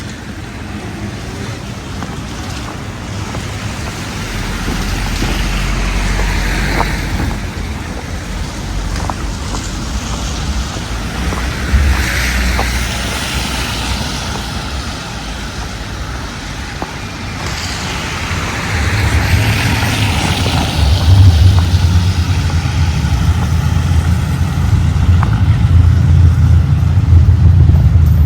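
Wind buffeting the microphone outdoors, a low irregular rumble that grows much stronger in the second half. Several swells of hiss rise and fade, like passing traffic or gusts.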